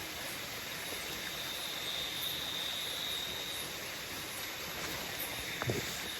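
Steady rush of waterfall water under a continuous high-pitched drone of tropical forest insects, with faint chirps above it. A short downward-sliding sound comes about five and a half seconds in.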